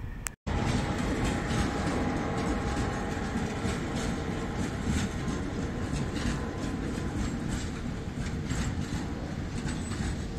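Freight train passing close by, its wagon wheels clicking over the rail joints in an uneven run of clicks over a steady rumble. The sound cuts in abruptly after a brief dropout about half a second in.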